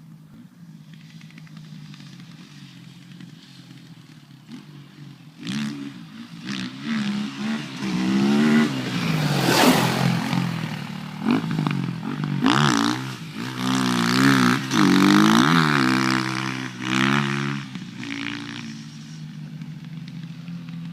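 Off-road motorcycle engine idling, then revved up and down many times, the pitch climbing and falling in quick sweeps, before it drops back to a steady idle near the end.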